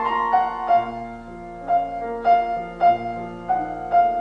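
Slow piano music: a melody of single notes struck about every half second over held lower notes.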